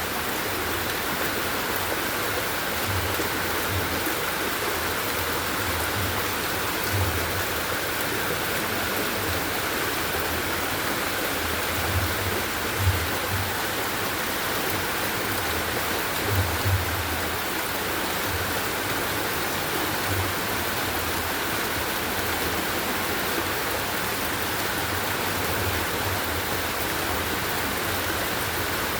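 Steady rush of heavy rain and running floodwater, an even unbroken noise, with scattered low thumps.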